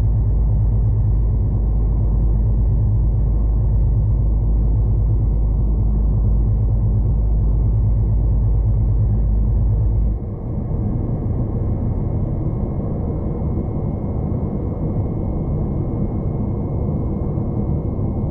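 V/Line passenger train running along the track, heard from inside the carriage: a steady rumbling running noise. The deep low rumble drops away suddenly about ten seconds in, leaving a lighter, even running sound.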